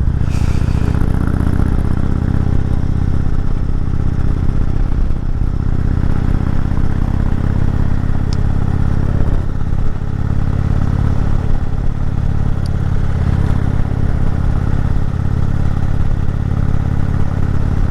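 Indian Chieftain Dark Horse motorcycle's V-twin engine running steadily under load as the bike climbs a steep mountain road, with a continuous low rumble.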